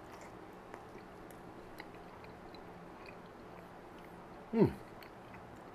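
A person chewing a mouthful of taquito, with faint small ticks of the food in the mouth. About four and a half seconds in, a brief murmur from him that falls in pitch.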